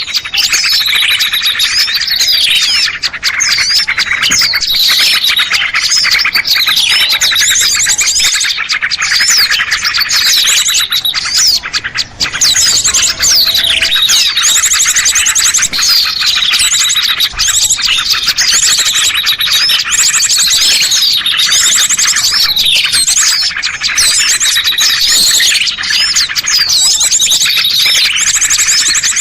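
Dense chorus of many small birds chirping and twittering without pause, with rapid trills and quick falling notes overlapping one another. It is a bird-lure recording played to draw small birds down.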